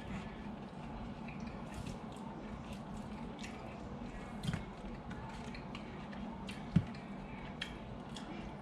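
Faint wet squishing and small clicks of someone chewing smoked pork ribs, over a steady low hum, with one sharp knock about seven seconds in.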